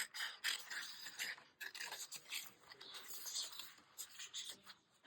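Faint paper rustling and scraping, many short irregular strokes, from cut-out paper pictures being handled and slid about for a journal page.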